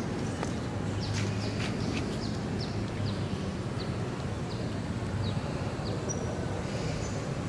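A small bird chirping repeatedly: a quick series of short, high, falling chirps that stops a little past halfway, over a steady low background hum.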